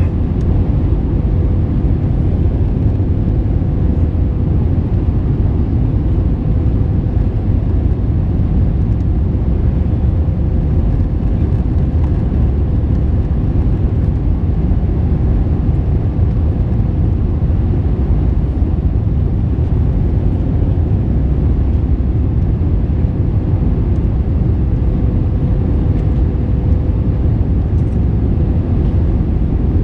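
Steady in-flight noise of an Airbus A321-231 with its IAE V2500 turbofans: a constant deep rumble of engines and airflow, with a faint steady whine running through it.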